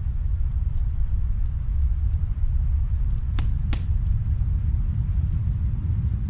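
Wood fire crackling in a fireplace, with scattered small pops and two sharper snaps about three and a half seconds in, over a loud, steady low rumble.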